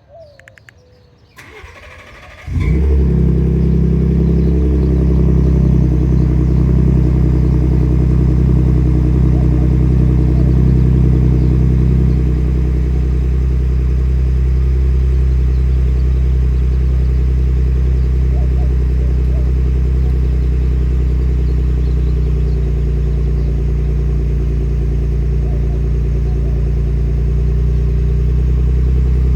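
Cold start of a Ford F-150 Raptor's 3.5L EcoBoost twin-turbo V6 through a Flowmaster FlowFX aftermarket muffler: a brief crank, the engine catches about two and a half seconds in and settles into a steady, loud cold idle. The idle eases down a little about twelve seconds in.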